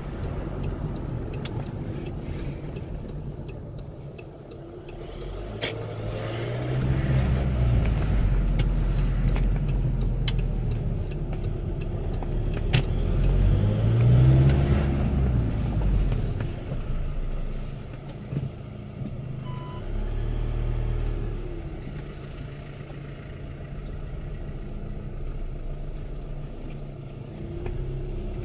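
VAG 2.0 TDI BKD diesel engine heard while driving, pulling up through the revs twice, with the loudest pull about halfway through, and easing off in between. The turbo gives the fluttering 'flufluflu' that the owner takes for the wastegate on a healthy, unmodified engine. A short beep sounds about two-thirds of the way in.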